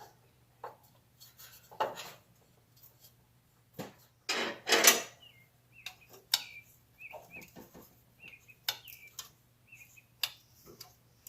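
Metal tools and small parts clinking and knocking in hand work on an old lawn tractor, with one louder rattling scrape about four to five seconds in. Small birds chirp faintly in the background.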